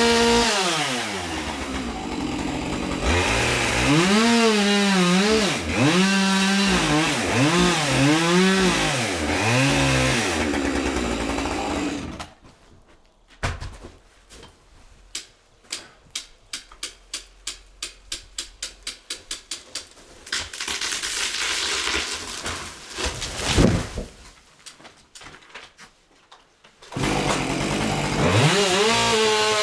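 Chainsaw running at high revs, its pitch rising and falling as the throttle is worked through a cut. About twelve seconds in it drops away to a quieter stretch with a quick series of clicks and one loud knock. Near the end the saw comes back at full revs.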